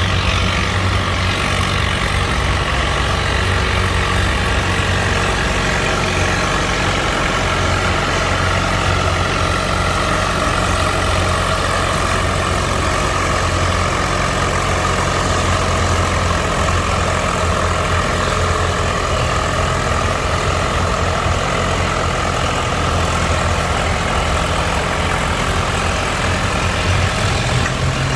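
Antique farm tractor engine running steadily at an even, unchanging speed.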